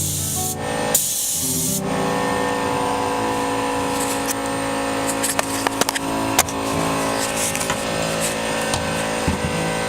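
Spray paint hissing in two short bursts in the first two seconds, over background music. After that, steady held musical tones with a few sharp clicks partway through.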